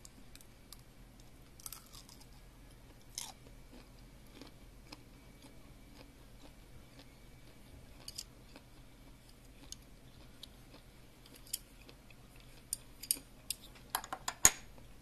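A person quietly chewing and crunching food, with scattered small clicks, then a quick run of louder clicks and knocks in the last two seconds.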